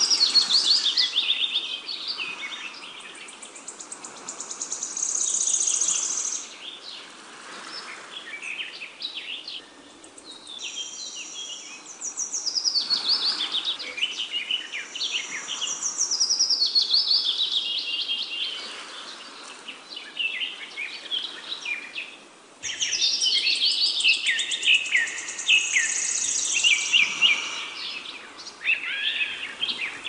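Songbirds singing, a busy chorus of quick chirps and falling trills.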